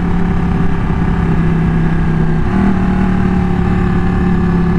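Ducati 1199 S Superquadro L-twin engine running steadily at cruise, its pitch rising briefly about halfway through before settling, with wind rush on the microphone.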